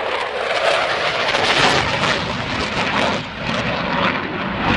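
Loud jet noise from a Eurofighter Typhoon's twin EJ200 turbofans in afterburner during a fast low pass: a dense, rough rushing sound that rises and falls slightly.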